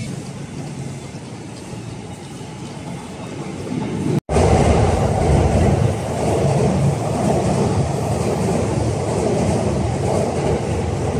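Train running on rails: a steady rumble that grows louder after a brief cut about four seconds in.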